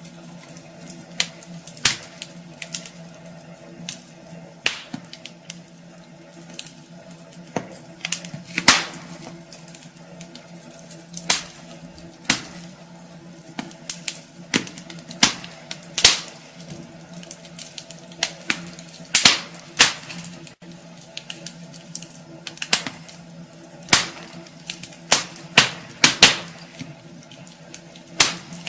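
Wood fire crackling in a fireplace: irregular sharp pops and snaps, a few a second at times, over a soft steady hiss.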